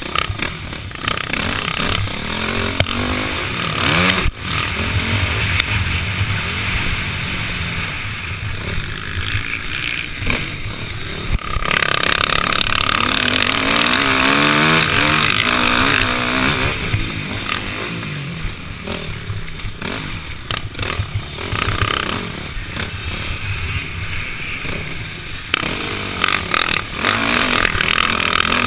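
KTM 505 four-stroke single-cylinder dirt bike engine revving up and down as it races, with rushing noise over the onboard camera; it is loudest and revs hardest from about twelve seconds in. A few sharp knocks come through.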